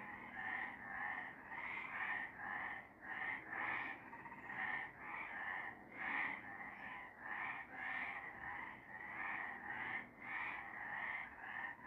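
A chorus of several frogs calling, short croaks repeating about two a second.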